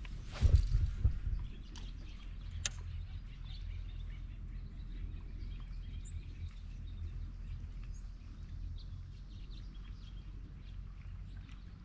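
Faint bird chirps over a steady low hum, with a brief thump about half a second in and a sharp click a couple of seconds later.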